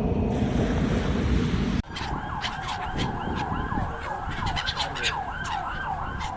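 A steady rushing noise cuts off abruptly about two seconds in. Seagulls then call many times over each other, quick rising-and-falling cries repeating several times a second.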